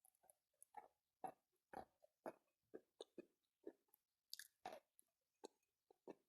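Faint close-up chewing of wet chalk, a soft pasty mouthful with some grit, about two chews a second.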